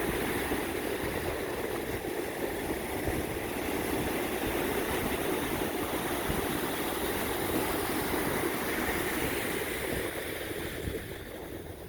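Steady rushing noise of surf and wind on the microphone, easing off near the end.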